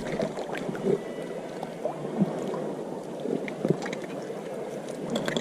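Shallow stream water running over stones, a steady rushing with scattered small clicks and knocks, heard through a GoPro microphone.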